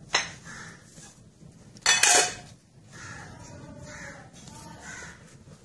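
Harsh cawing bird calls: a short one at the start and a louder, longer one about two seconds in.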